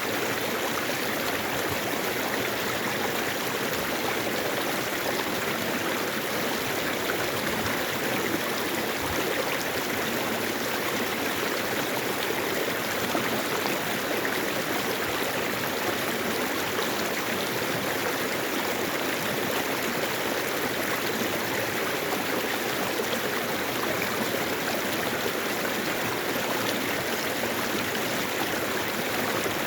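A mountain stream running steadily over rocks, an even rush of water.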